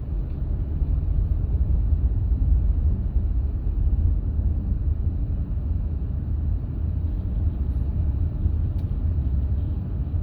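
Honda Pilot driving on a snow-covered road: a steady low rumble of engine and tyres.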